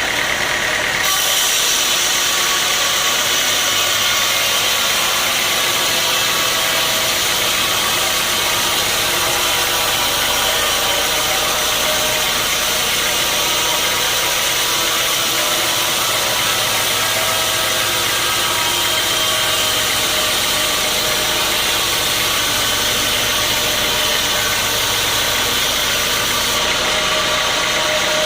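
Sawmill machinery running steadily with an engine-like drone underneath. About a second in, a higher hiss joins in and lasts until near the end, as a blade cuts through a log.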